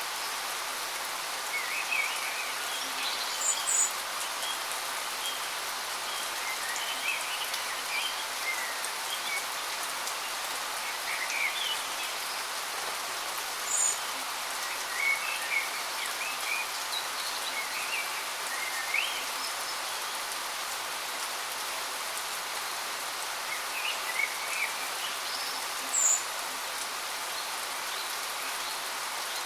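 Steady rush of a waterfall, with small birds chirping in short scattered calls over it and a few brief very high notes.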